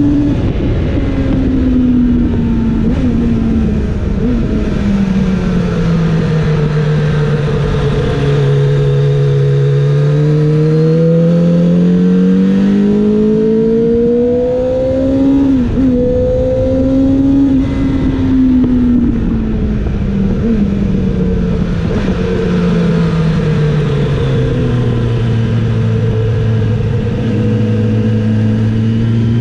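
Kawasaki ZX-7R's inline-four engine running hard on track, its pitch sinking slowly over the first several seconds, climbing again, then sinking and climbing once more near the end, with wind rushing over the bike throughout.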